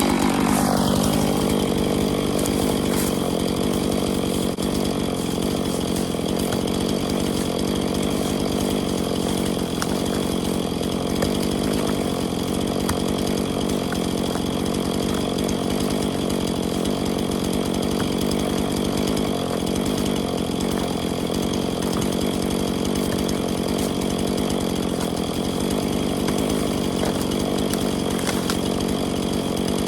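Chainsaw engine running loud and steady, its pitch falling just after the start and then holding level.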